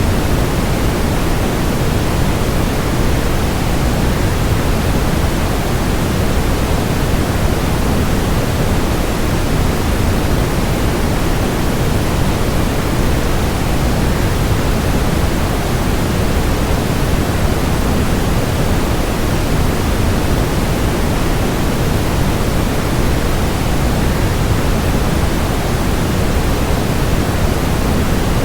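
Steady, unchanging rushing hiss, heaviest in the low end: a waterfall's sound blended with white noise for relaxation.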